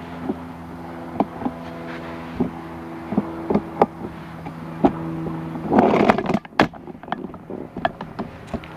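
Footsteps and handling knocks over a steady low buzzing hum. About six seconds in there is a short burst of rustling noise, and then the hum mostly drops away.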